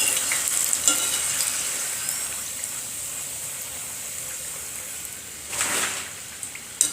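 Kapnya (jaggery-dough snacks) deep-frying in hot oil, sizzling with a steady hiss that slowly dies down. A short louder rush of sizzling comes about five and a half seconds in.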